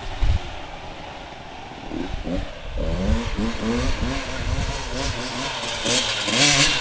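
Dirt bike engine revving, its pitch rising in short repeated sweeps about three times a second.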